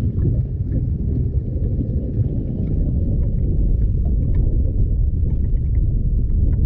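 Strong wind buffeting the microphone, a steady low rumble, with a few faint ticks from the boat.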